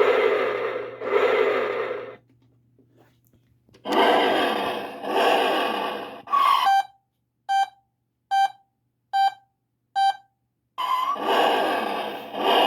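Electronic sound effects from a Road Rippers Street Poundin' Sound toy truck's small built-in speaker. Three loud noisy bursts each start with a short rising chirp, and between the second and third comes a run of five short beeps about 0.8 s apart.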